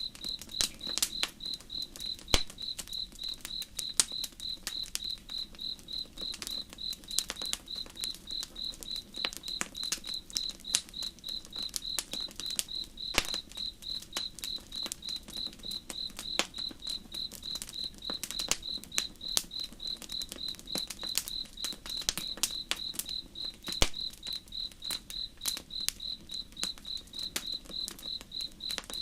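Crickets chirping in a steady, evenly pulsed trill, with campfire wood crackling and popping in sharp, irregular snaps throughout.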